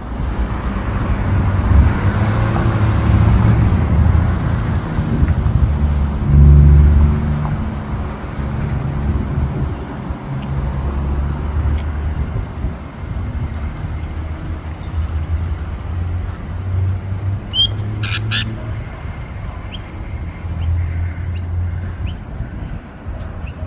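Low, steady outdoor rumble, loudest in the first several seconds. About eighteen seconds in, a parrot gives a short burst of sharp squawks, and a few faint chirps follow near the end.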